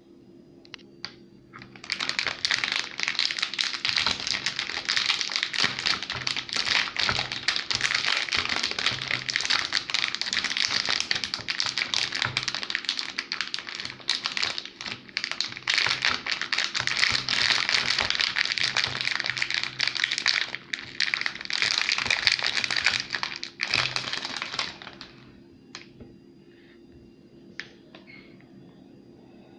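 Plastic and foil wrapper of a Milka whole-almond chocolate bar crinkling as it is handled and torn open: a dense, continuous crackle that starts about two seconds in and stops a few seconds before the end, then a few light clicks.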